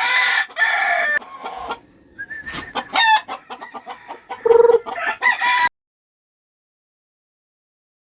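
Several roosters crowing over one another, with chickens clucking. The sound cuts off abruptly about two-thirds of the way through.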